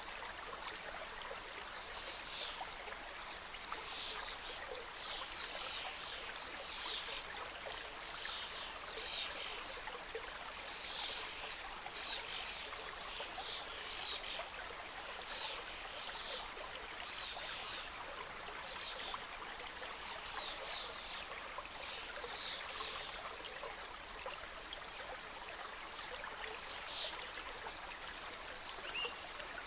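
Mountain stream cascading over rocks: a steady rush of water with frequent small splashes and gurgles on top.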